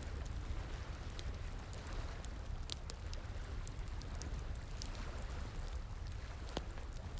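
Wood fire crackling, with irregular sharp pops and snaps, over the steady rush of flowing water.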